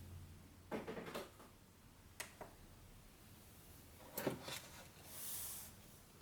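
Faint handling sounds in a quiet small room: a few soft rustles and light clicks, with a brief soft hiss about five seconds in.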